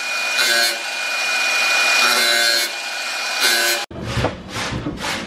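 Power tool running and cutting or grinding, its steady motor pitch under a rasping noise that swells and eases as it bears on the work. It cuts off abruptly near the end, and a rhythmic scraping follows at about two to three strokes a second.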